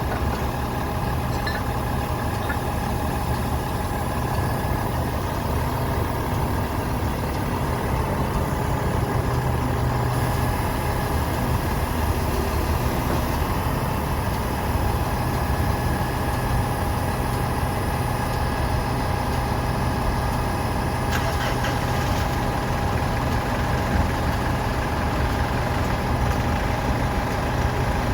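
A truck's diesel engine idling steadily at an even, unchanging speed.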